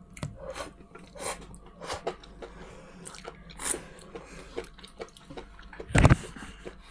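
Close mouth sounds of people biting and chewing nori-wrapped baked sushi rolls: soft wet smacks and small clicks throughout. About six seconds in, a single short, loud thump.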